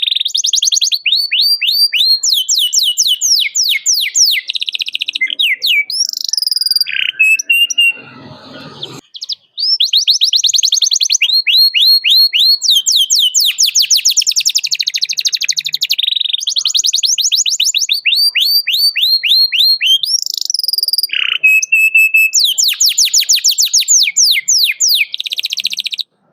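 Domestic canary singing a loud, fast song of rapid trills, each made of quick repeated falling notes, switching from one trill type to the next. About eight seconds in the song breaks off for about a second with a short low rustle, then resumes and cuts off suddenly near the end.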